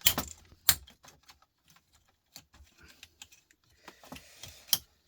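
Irregular clicks and taps of small hard parts and hand tools being handled while a computer circuit board is stripped for scrap, a few louder knocks near the start and near the end.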